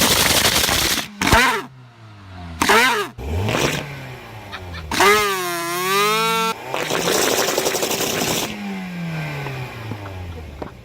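Car engine revved hard in quick blips through a loud exhaust, with a wavering, warbling tone in the middle; near the end the revs drop in a long falling pitch.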